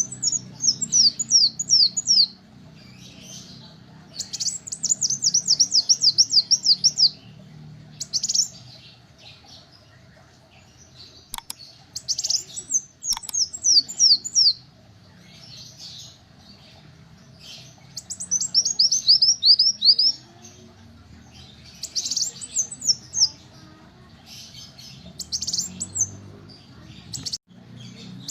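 Kolibri wulung, a small sunbird, singing: repeated phrases of rapid, high notes that sweep downward, each phrase a second or two long, with pauses of a few seconds between. A faint low hum runs underneath.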